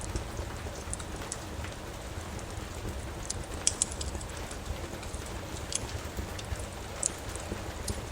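Steady rain with a crackling wood fire: a constant hiss and low rumble, with scattered sharp pops and snaps from the burning logs, a small cluster of them a little past the middle.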